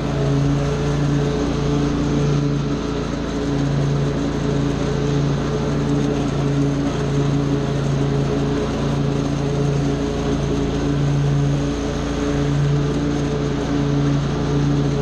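Small gasoline engine of lawn equipment running steadily at working speed, its pitch wavering slightly every second or so.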